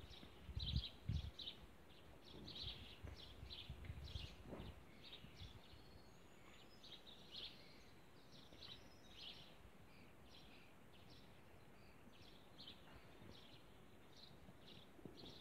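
Faint outdoor birdsong: many short, high chirps repeated throughout, with a low rumble during the first few seconds.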